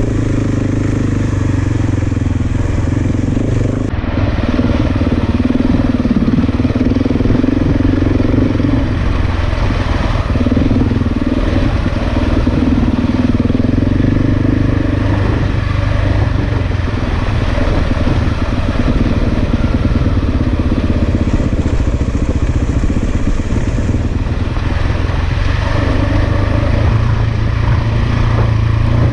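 Large single-cylinder dual-sport motorcycle engine running steadily while riding.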